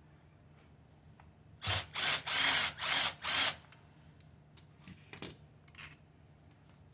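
A power drill/driver spinning in five quick bursts, one after another, loosening small engine bolts. A few light clicks of metal parts being handled follow.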